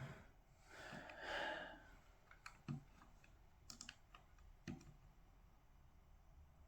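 Light, sparse typing on a computer keyboard: a handful of scattered quiet key clicks, after a soft rustle about a second in.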